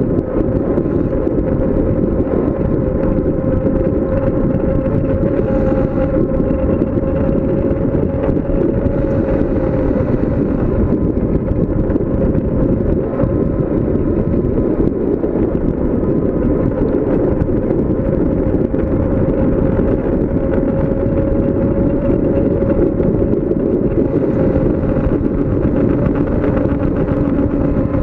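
Wind buffeting the microphone on a bicycle coasting downhill at speed, a steady low rush with a faint, constant hum running under it.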